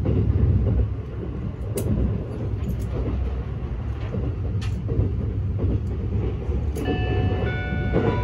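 Running noise inside an E257 series limited express train's passenger car: a steady low rumble with a few sharp clicks. Near the end, several steady high-pitched tones come in.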